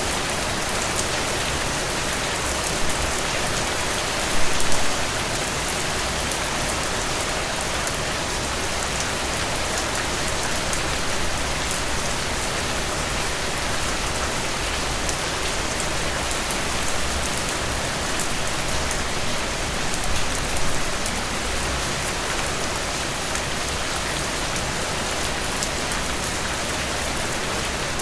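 Steady rain falling on a surface, a dense even hiss with fine drop patter, swelling briefly a few times.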